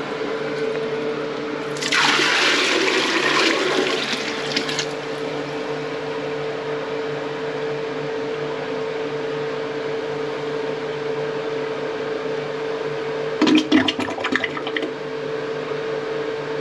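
A bucket of water dumped into a toilet bowl and rushing down the drain for about three seconds. This bucket test checks whether the drain itself is slow apart from the toilet's flush. A bathroom exhaust fan hums steadily throughout, and a brief clatter comes near the end.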